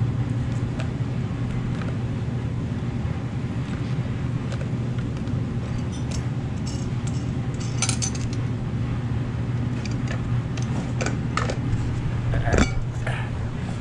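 Ford 302 small-block V8 running steadily on its first start, with a constant low engine hum and scattered light metallic clicks and clinks over it. The engine is not yet running right: timing not yet set, carburettor not yet adjusted.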